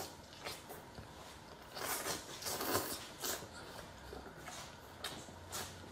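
Mouth sounds of a person eating a large prawn: chewing, lip smacks and slurps in short irregular spells.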